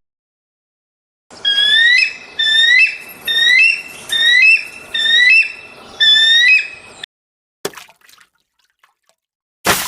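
A bird calling a short whistled note that rises then levels, repeated about eight times in a row, roughly one every 0.7 seconds. A brief click follows, and a sharp hit near the end.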